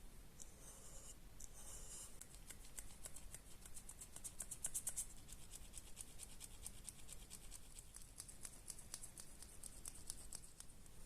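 Quick, light scratching or scraping strokes repeating several times a second, beginning about two seconds in.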